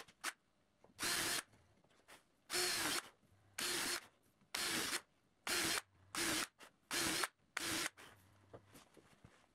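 Power drill driving screws into alder bench parts, run in about eight short bursts with brief pauses between them.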